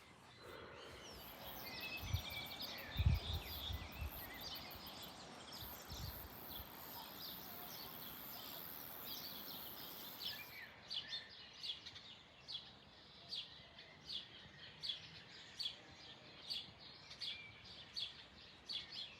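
Birds chirping, with short calls repeating about one to two a second in the second half. A high, even hiss sounds under them and stops about halfway through, and there are a few low thumps early on.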